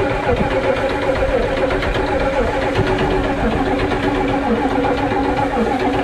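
Ford truck engine running steadily after a restart, then cutting out suddenly near the end. The owners put the stalling down to water in the fuel, with the water-in-fuel warning showing.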